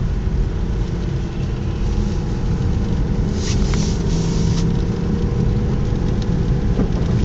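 Car engine and tyre noise heard from inside a moving car: a steady low running sound with engine hum, and a short rush of hiss about three and a half seconds in.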